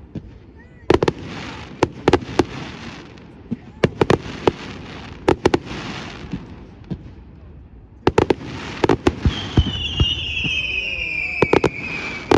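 Display fireworks going off: clusters of sharp bangs with crackling between them. Near the end a long high whistle slides slowly down in pitch.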